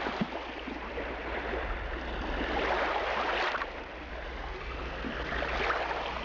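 Seawater washing and rushing, swelling about two seconds in and easing off again.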